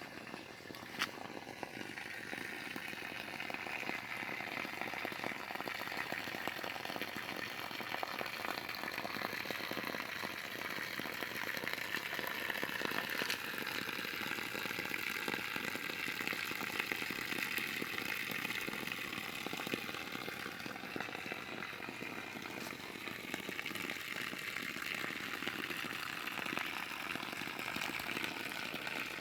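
Water gushing steadily from a newly drilled well's discharge as the well is flushed out until the water runs clear.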